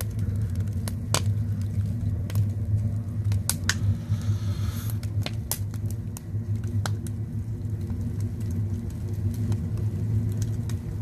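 Wood fire burning in a stone firebox: scattered sharp crackles and pops over a steady low rumble, with a brief hiss about four seconds in.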